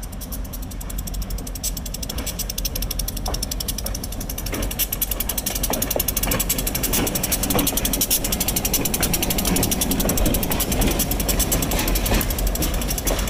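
Diesel freight locomotive rolling slowly past, with a rapid, even clicking rattle and scattered knocks of wheels on the rails. It grows louder about five seconds in as the locomotive draws alongside.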